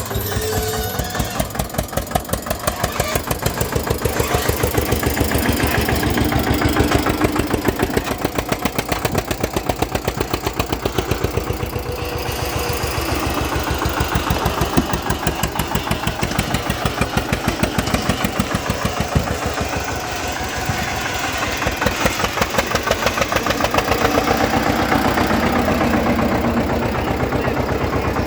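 Eicher 241 tractor's single-cylinder diesel engine running, each firing stroke heard as a steady chug, with the engine note swelling louder and easing off a couple of times.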